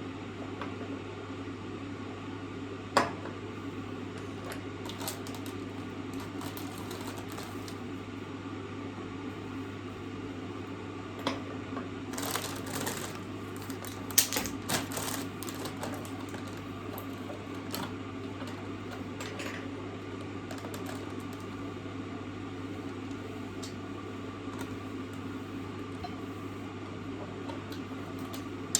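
A steady low hum with scattered clicks and clattering of objects being handled: a sharp knock about three seconds in and a burst of clatter around the middle.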